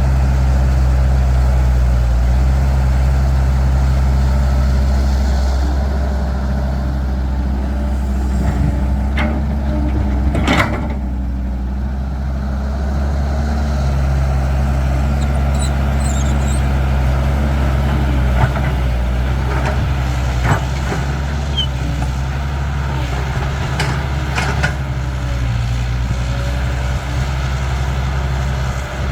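Caterpillar 312 excavator's diesel engine running steadily under changing hydraulic load as it loads soil onto a truck, with a few sharp knocks and clanks and a short hiss about ten seconds in.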